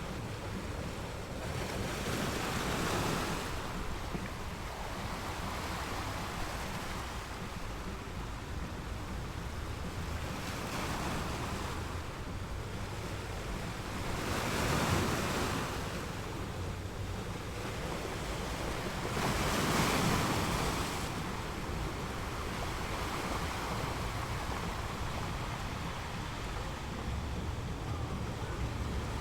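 Waves washing in with wind on the microphone: a steady rush of noise that swells louder a few times.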